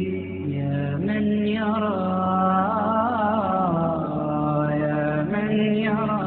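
Unaccompanied male voice chanting an Arabic nasheed in long, drawn-out melismatic notes that glide between pitches, over a steady low vocal hum.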